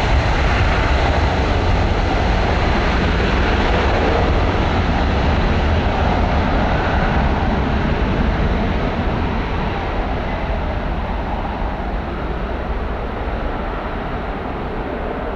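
Boeing 747-400F freighter's four jet engines roaring on departure, slowly fading as the aircraft climbs away, the higher sounds dying off first.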